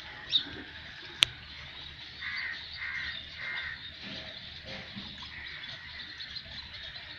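A bird calling: three harsh calls in a row about two seconds in, after a short high chirp near the start. A sharp click about a second in.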